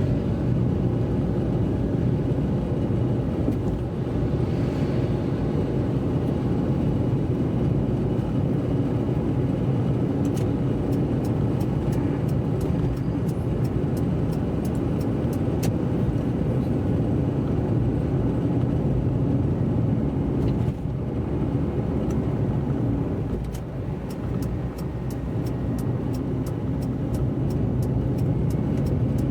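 Car driving on a wet road: a steady low rumble of engine and tyre noise, dipping briefly a little after halfway. Light clicks come in from about a third of the way through and grow frequent near the end.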